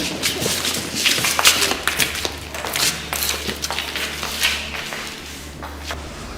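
Scattered clicks, taps and light knocks with some rustling, over a steady low hum that stops near the end.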